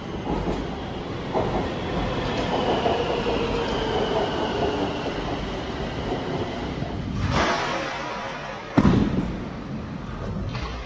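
Bangkok BTS Skytrain train running with a steady rumble and a faint electric motor whine that slowly falls in pitch. Two sudden loud noises come near the end.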